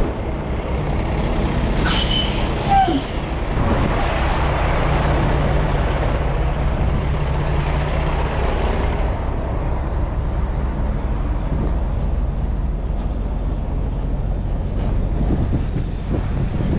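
Heavy diesel truck running with a steady low drone, with a brief sharp air-brake hiss about two seconds in and a louder rush of engine and road noise for a few seconds after it as the truck gets moving.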